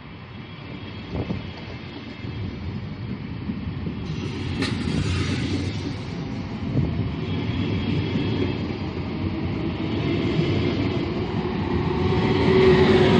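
Double-deck Intercity train rolling past, its noise growing steadily louder, with a brief high squeal about four and a half seconds in. Near the end its electric locomotive at the rear comes by with a steady hum, the loudest part.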